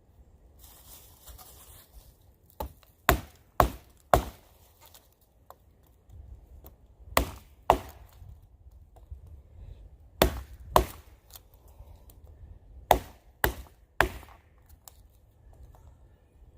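Pocket knife chopping into the dry wood of a dead standing tree. The sharp chops come in bursts of two to four strokes about half a second apart, with short pauses between bursts. Each angled stroke peels out a small chip as the cut goes around the trunk.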